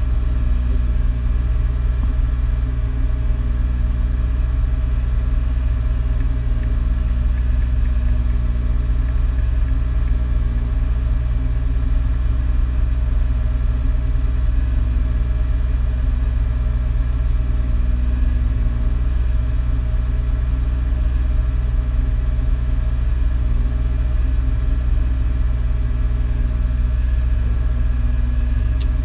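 Peugeot 106 rally car's engine idling steadily while the car waits stationary, heard from inside the cabin.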